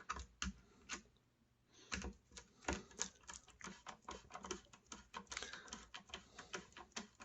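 Light, irregular clicks and taps from hands handling the router and its small plastic and metal parts, with a short quiet gap about a second in.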